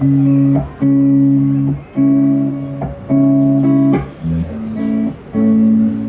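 Live guitar playing a song's opening: a run of held chords, roughly one a second, each stopped briefly before the next.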